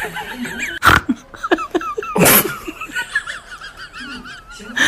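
Squeaky, wavering laughter-like sounds, broken by two sudden sneeze-like bursts, one about a second in and a longer one a little after two seconds.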